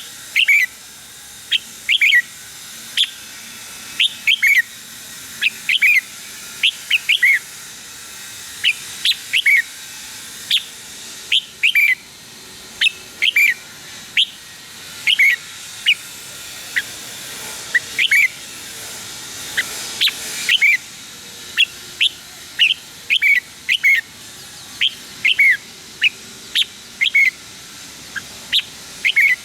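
Red-whiskered bulbul singing: short, sharp whistled notes in quick clusters of two or three, repeated about every second, over a faint steady hiss.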